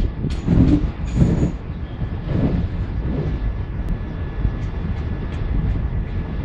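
Passenger express train pulling out of a station, heard from aboard: a steady low rumble of the coaches rolling on the track, with sharp wheel clicks over rail joints, loudest in the first second or so and lighter ticks later.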